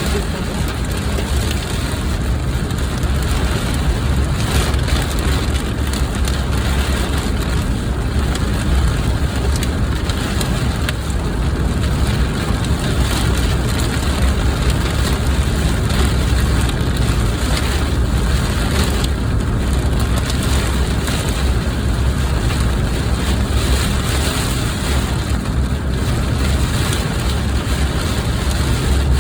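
Heavy rain falling on a car, a steady hiss over a constant low rumble from the car.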